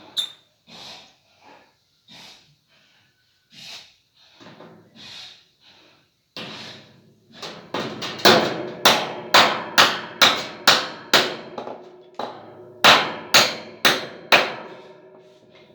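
Hammer blows, about three a second, in two quick runs with a short pause between. Softer knocks and handling noises come first.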